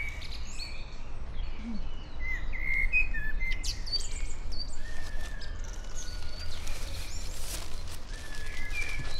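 Small songbirds chirping and calling in short, varied phrases over a steady low background rumble, with a brief hiss about seven and a half seconds in.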